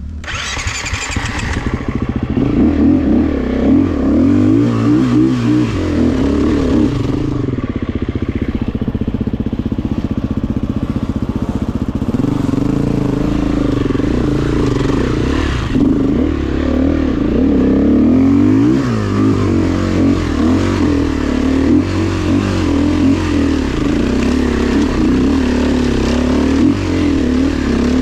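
Dirt bike engine running under way, its revs rising and falling again and again, with a loud burst of engine noise in the first couple of seconds.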